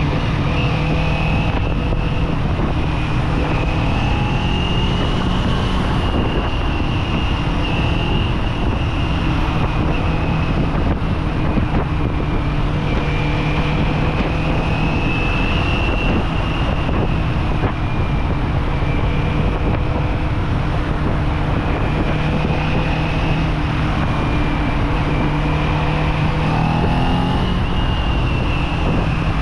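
Kawasaki Z400 parallel-twin engine running at a fairly steady cruise, its pitch drifting gently up and down with small throttle changes, over a rush of wind noise.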